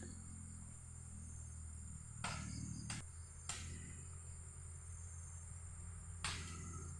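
Insect chorus, a steady high-pitched trill, over a low steady hum, with a few short knocks or rustles.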